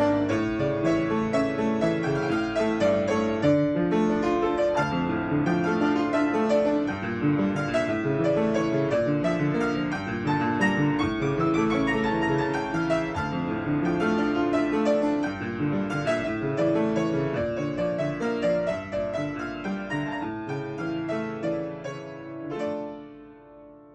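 Solo piano playing a flowing melody over an accompaniment, ending on a final chord struck about a second before the end that rings on and fades away.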